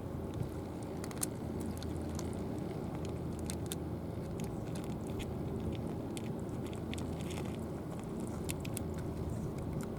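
A cat crunching dry food: irregular short, sharp crunches over a steady low background rumble.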